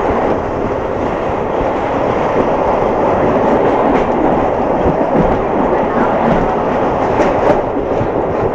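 Narrow-gauge train hauled by an RhB G4/5 steam locomotive running, heard from on board: a steady rumble of wheels on rails, with sharper clicks in the second half as the wheels cross rail joints and points.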